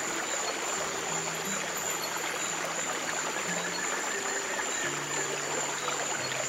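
Steady rushing and trickling of a stream, with slow, sustained low music notes changing about once a second underneath.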